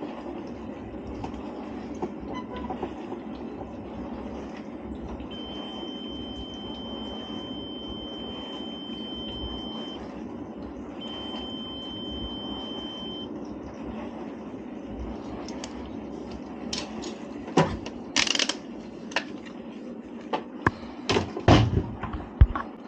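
Digital multimeter beeping a steady high tone twice, a long beep and then a shorter one, over a low steady hum. This is the meter's continuity tone sounding across the washing machine's heater element. Near the end come sharp metallic knocks and clatter of tools being handled.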